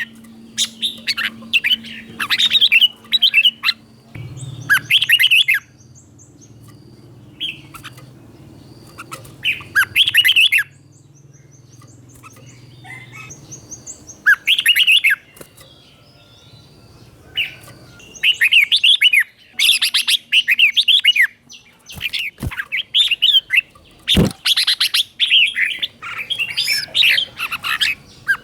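Red-whiskered bulbul singing its 'double' song: bursts of quick, warbling phrases, repeated with short pauses between them. Two sharp clicks come near the end.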